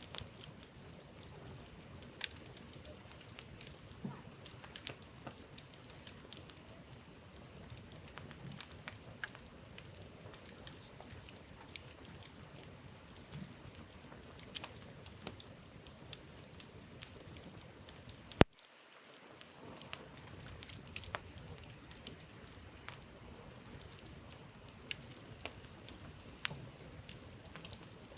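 Wood campfire crackling: irregular small pops and snaps over a steady soft hiss, with one much louder sharp crack about two-thirds of the way through.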